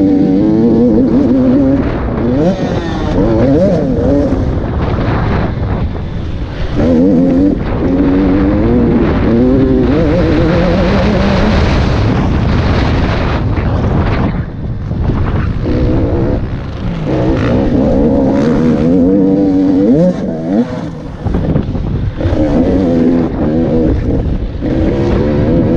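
KTM SX 85 two-stroke motocross bike being ridden hard. The engine revs up and shifts through the gears again and again, with the throttle chopped briefly every few seconds, so the pitch keeps climbing and dropping.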